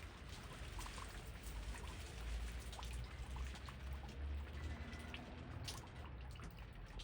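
Steady rain with many separate drops ticking close by, over a low rumble of wind that swells about two seconds in and eases off again.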